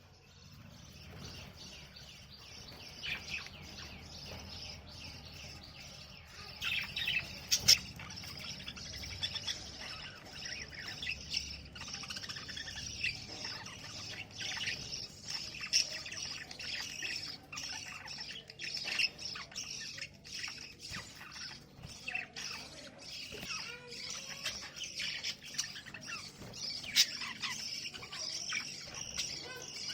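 Budgerigars chirping and chattering with many short, quick chirps, busier from about six seconds in, with a few sharp clicks among them.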